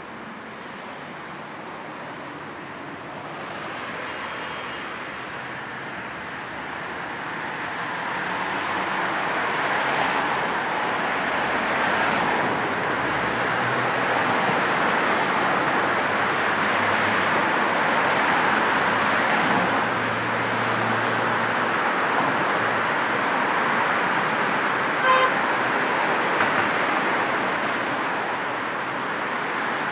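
Road traffic noise from passing cars, a steady rush of tyres and engines that swells over the first ten seconds. A car horn gives a short toot about 25 seconds in, with a fainter one just after.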